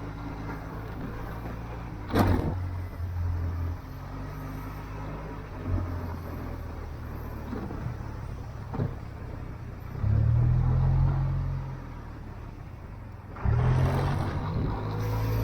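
Motorcycle engine running on the move, its low drone swelling louder as the throttle opens about two seconds in, around ten seconds in and again near the end, with a few short knocks along the way.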